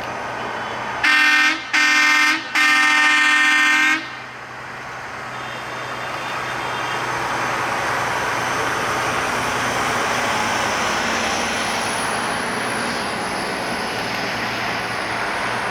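Truck horn sounding three blasts, two short and then one longer, each a single steady pitch. Then a truck's engine and tyres grow louder as it approaches and passes.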